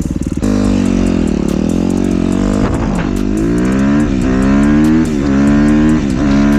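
2015 Suzuki RM-Z250 four-stroke single-cylinder dirt bike engine accelerating hard: the revs climb and drop back sharply about four times as the rider shifts up through the gears.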